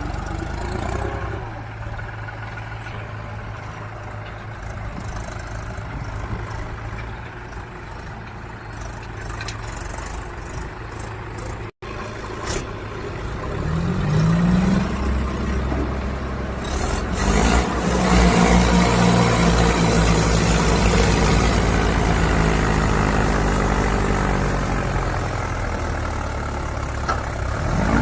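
Diesel tractor engines running steadily, then revved up hard several times with rising engine pitch. They are loudest in the second half, after a brief dropout near the middle.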